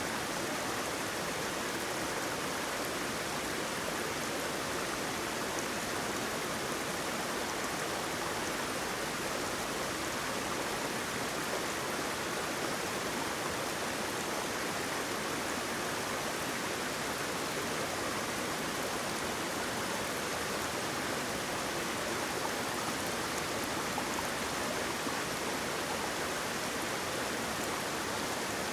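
Waterfall: water pouring and splashing in a steady, unbroken rush that is strongest in the middle and upper range, with little deep rumble.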